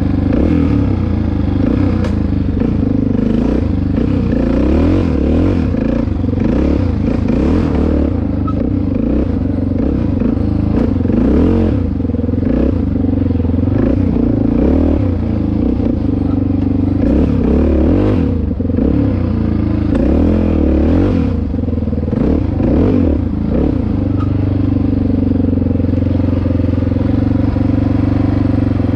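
Dirt bike engine running under riding throttle, its pitch rising and falling constantly as it works through sand. Near the end it settles to a steadier, even note.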